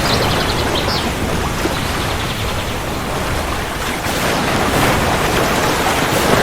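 Steady heavy rain with a deep, continuous low rumble of thunder underneath. Faint, quick high-pitched chirping can be heard in the first couple of seconds.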